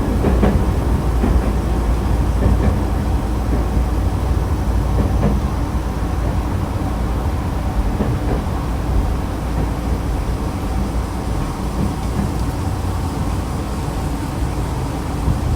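Running sound of a Nankai electric train heard from on board: steady rumble of the wheels on the rails, slowly getting quieter as the train slows for the station.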